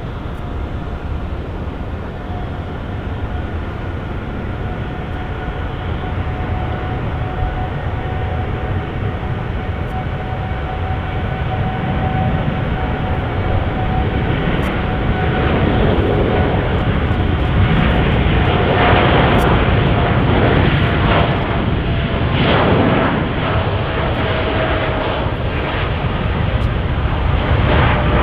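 Jet airliner's engines, a deep rumble with a steady whine on top, growing louder over the first two-thirds and staying loud.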